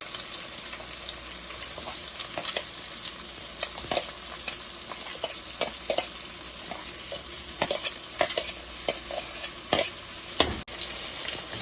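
Chopped onion sizzling in hot oil with cumin in a frying pan, with a spoon stirring and scraping against the pan in irregular clicks.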